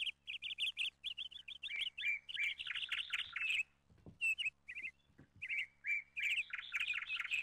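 Small birds chirping in quick, busy runs of short falling notes, with a pause about four seconds in and a couple of soft thuds around then.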